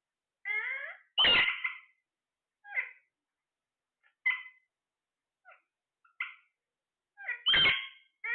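Pet parrot calling in a series of short, pitched, meow-like squawks, with two much louder calls about a second in and near the end.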